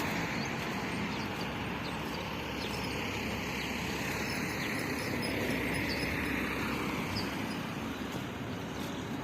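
Steady noise of a moving vehicle: a continuous low rumble with road and wind hiss.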